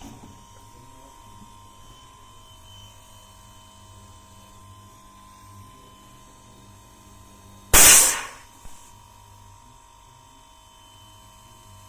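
A steady electrical hum, broken about eight seconds in by one loud, sharp bang that dies away within half a second.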